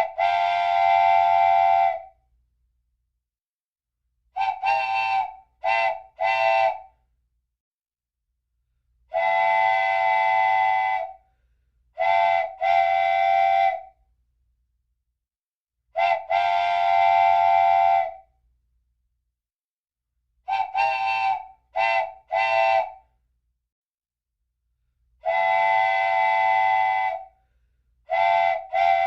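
Train chime whistle sounding a chord of several tones in a repeating pattern: a long blast of about two seconds, then a group of two or three short blasts, then another long blast, with silence between the blasts.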